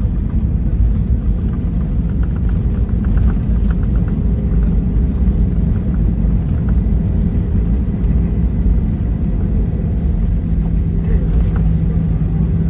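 Airbus A321 cabin noise heard from a rear window seat: a steady, loud low rumble of engines and airflow, with light rattling ticks a couple of seconds in and a steady low hum joining about ten seconds in.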